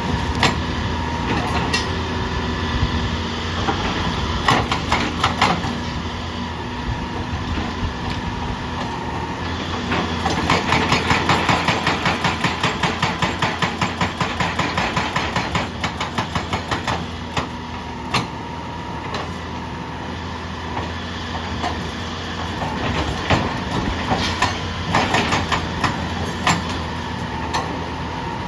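A machine running with a steady hum, with scattered knocks and, through the middle stretch, a fast even clatter of about four beats a second.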